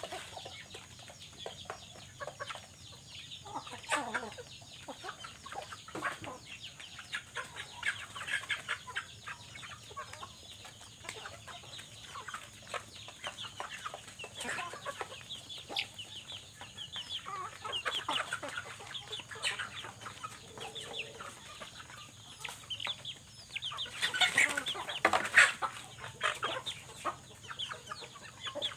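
Many short, irregular animal calls, chirps or clucks, going on throughout, with a louder flurry near the end.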